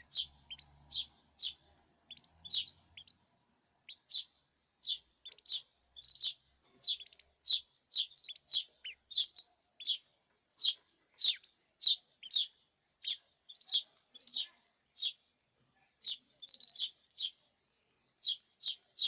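Canaries giving short, high chirps over and over, about two a second, with a couple of brief pauses.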